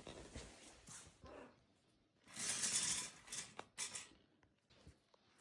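Toy shopping cart rattling as it is rolled, with a burst of noise about two seconds in and a few sharp clicks after it.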